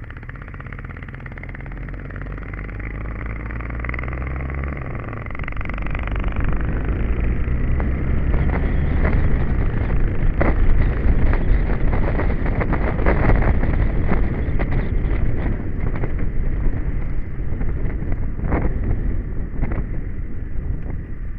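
Royal Enfield single-cylinder motorcycle engine running steadily uphill, its pitch shifting about five seconds in and growing louder as the bike gathers speed. Wind buffeting on the microphone rises with the speed and crackles through the second half.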